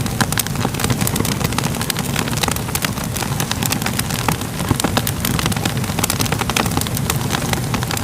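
Wood fire crackling steadily: many sharp pops and snaps over a low rumble of the flames.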